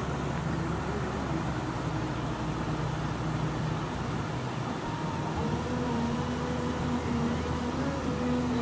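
A motor vehicle running: a steady low engine and road hum whose pitch steps up about five and a half seconds in.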